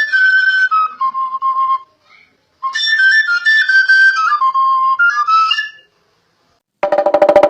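Intro music: a flute-like wind instrument plays two short melodic phrases that step downward in pitch. Near the end a brief, rapid buzzing pulse follows.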